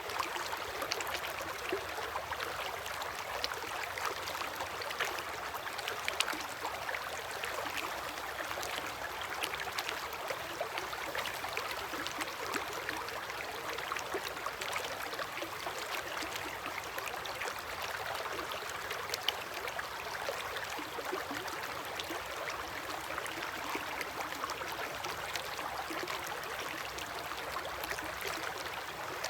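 River water flowing against the bank: a steady rush of water with many small splashes.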